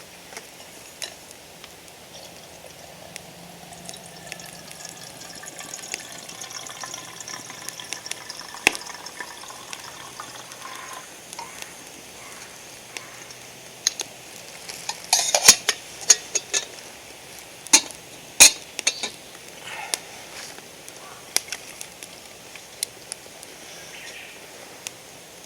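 Wood campfire crackling, with scattered sharp pops, the loudest about halfway through and again a few seconds later.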